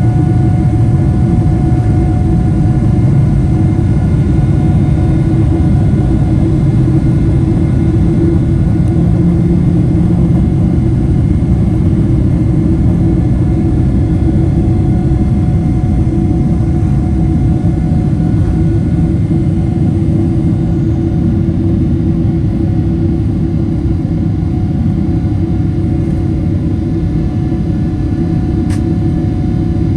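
Boeing 777-300 jet engines at takeoff power heard from inside the passenger cabin: a loud, steady rumble with a few steady whining tones over it.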